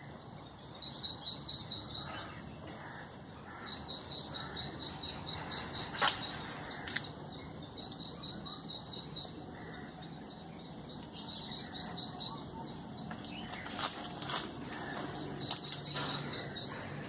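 A bird singing: five bursts of quick, high, repeated chirps, several a second, each burst lasting one to two and a half seconds, with pauses between.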